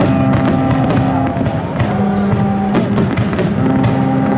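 Aerial firework shells bursting in a string of sharp bangs, spread irregularly across the few seconds, over music with steady held notes.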